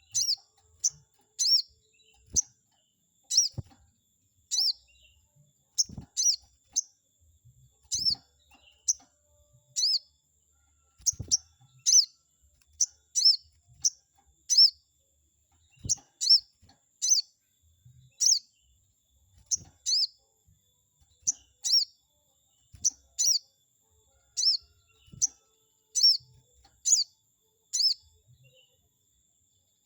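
Sogon bird calling: short, high "cuit" chirps repeated about one to two a second, often in quick pairs or threes, with a few faint low thumps underneath.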